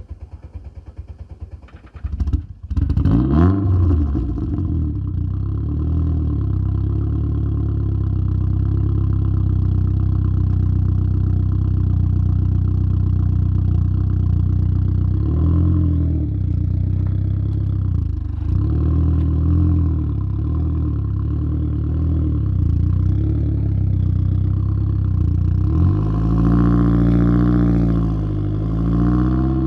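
Saab 9-3's B204 2.0-litre turbocharged four-cylinder heard at the tailpipe through a 3-inch downpipe and Simons muffler. The starter cranks for about two seconds, then the engine catches with a quick flare of revs and settles into a steady idle. Near the end the revs rise and fall once.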